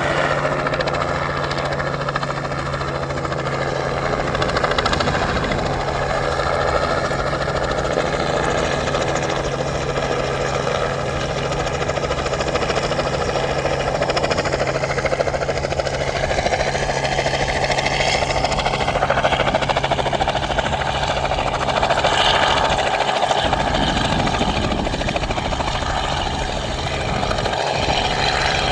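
Helicopter running continuously: a steady low drone with higher whining tones that glide up and down in pitch partway through.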